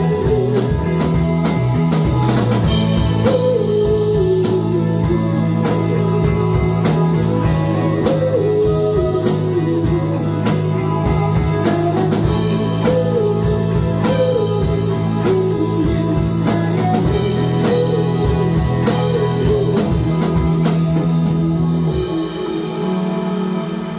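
Live rock band playing: drum kit and guitars, with a wavering lead guitar line over a steady low note. Near the end the drums and cymbals stop, leaving a thinner ringing guitar sound.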